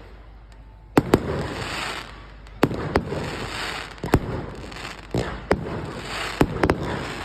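Fireworks going off one after another: six or seven sharp bangs, about one every second and a half, each followed by a second or so of crackling fizz.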